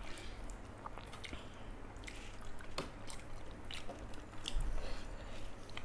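A person chewing a mouthful of rice and curry, with wet, squishy mouth sounds and scattered small clicks and smacks.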